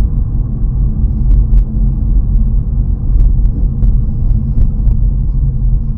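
Car driving, heard from inside the cabin: a steady, loud low rumble of road and engine noise, with scattered sharp ticks about eight times.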